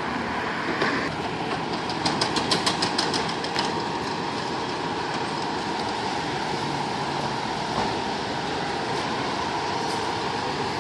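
A large vehicle running steadily, with a quick run of about ten sharp clicks about two seconds in.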